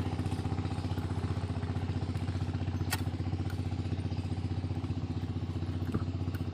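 Small engine running steadily at an even speed, with one sharp click about three seconds in.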